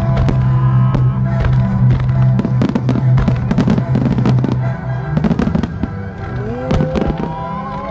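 Fireworks starmine: rapid cracks and bangs of aerial shells bursting, closely spaced, over loud music with a steady low drone.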